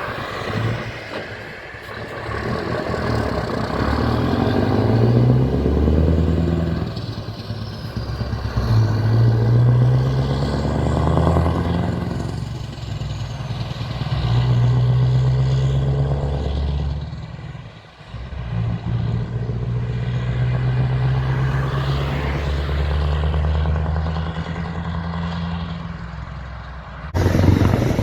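Scania V8 diesel truck engine with open exhaust pipes, pulling hard. The note climbs and drops back about four times, as at gear changes. Near the end it switches abruptly to a louder engine sound.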